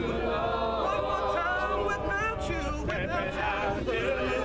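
A group of voices singing a hymn together a cappella, in harmony, with no instruments.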